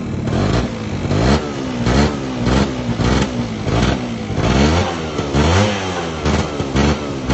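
Honda Dio ZX scooter's 50cc two-stroke engine being blipped on the throttle about ten times in a row, each rev rising in pitch and falling back to idle.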